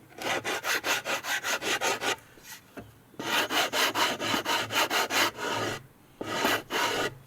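A wooden part being smoothed by hand with quick back-and-forth rubbing strokes, about five a second, in three runs with short pauses between them.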